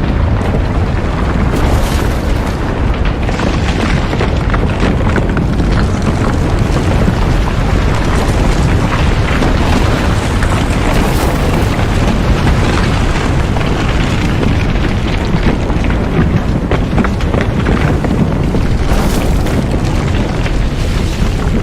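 A steady, loud low rumble with faint crackling running through it.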